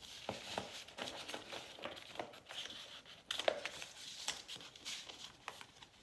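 Paper pages and loose cardstock pieces of a junk journal rustling and crinkling as they are handled and turned, with small irregular taps and rustles throughout and a louder rustle about three and a half seconds in.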